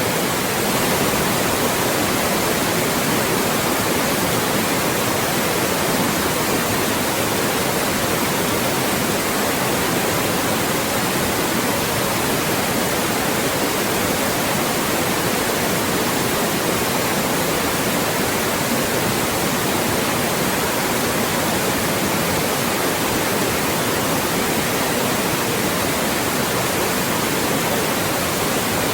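Loud, steady white noise: an even hiss across the whole range that never changes.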